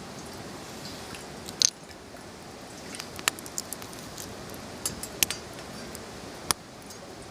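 Wood campfire crackling: about ten sharp, irregular pops over a steady hiss, the loudest a little over a second and a half in.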